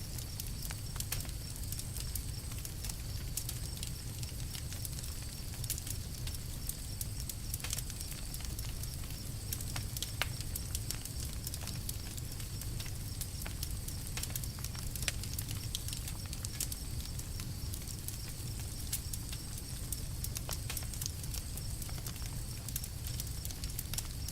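Wood campfire crackling: many small irregular snaps and pops over a steady low rumble of the burning fire.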